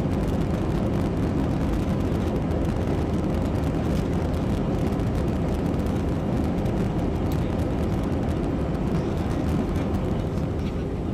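Airbus A320 jet engines and rushing air during take-off: a steady, loud rumble.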